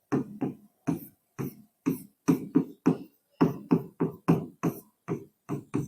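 Short, sharp strokes of hand writing, about three or four a second in an uneven rhythm, as a formula is written out.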